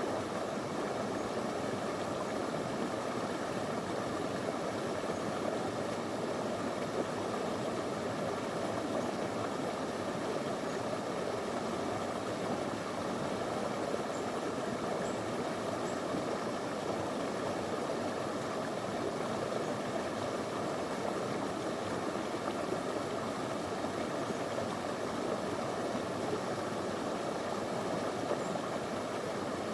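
Small river running over stones: a steady rush of water.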